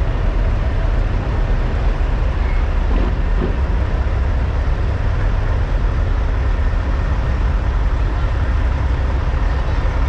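Diesel engines of parked semi trucks idling, a steady low rumble.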